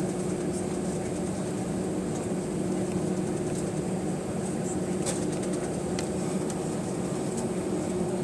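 Steady drone of an Airbus A320's CFM56-5A3 engines and airflow inside the passenger cabin, heard from a rear seat, with a constant low hum.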